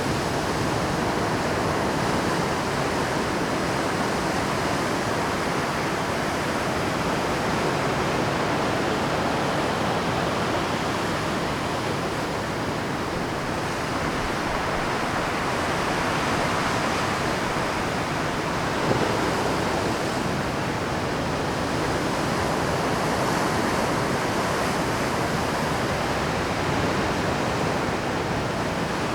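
Heavy Pacific surf breaking on rocks at high tide: a continuous dense wash of churning water that swells and ebbs slowly.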